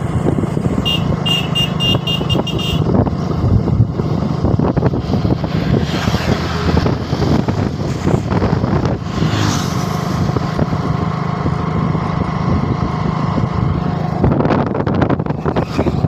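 Motorcycle engine running steadily while riding, under heavy wind and road noise. About a second in comes a rapid series of high beeps, roughly five a second, lasting about two seconds.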